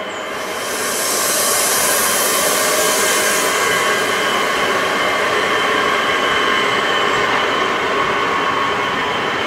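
Electric-hauled freight train passing close by: the locomotive and then its wagons rolling over the rails in a steady loud rush, with several steady high tones running through it. A strong hiss sits on top for the first few seconds while the locomotive goes by.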